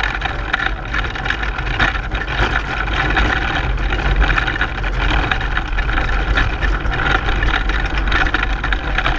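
Steady rattling and rumbling of a racing pedal car in motion, picked up by a camera mounted on the car.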